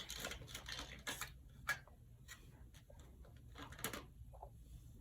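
Light, scattered clicks and clacks of plastic toy dishes and toy food being handled on a toy kitchen set.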